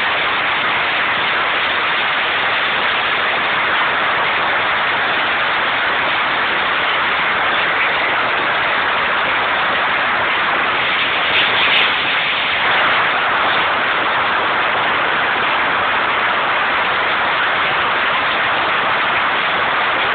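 Loud, steady machinery noise of a ship's engine room, an even din with no distinct rhythm, briefly a little louder about halfway through.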